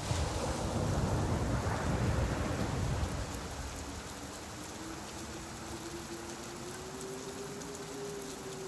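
Steady rain falling, with a deep low rumble that swells at the start and dies away after about three seconds.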